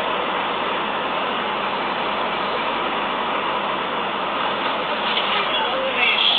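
Steady, even rushing noise of a vehicle's engine and road noise, with some sharper sounds coming in near the end.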